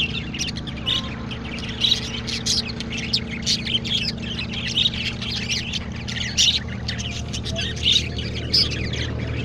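A crowd of farm birds chirping and squawking, with many short high calls overlapping continuously, over a steady low hum.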